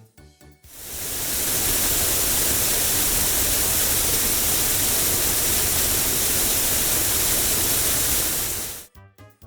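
Car-wash sound effect: a steady hissing spray that fades in over about a second and cuts off suddenly near the end.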